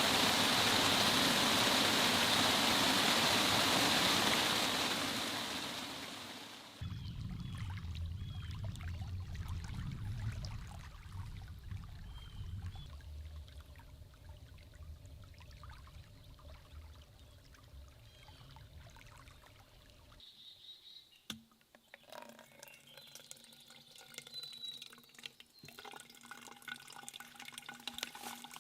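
Heavy rain falling steadily, loud for the first few seconds, then fading away. A quieter low rumble follows, and near the end a few faint ticks.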